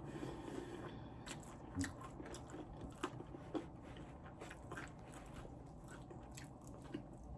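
Close-miked chewing of fried chicken wings: irregular crisp crunches and mouth clicks, faint.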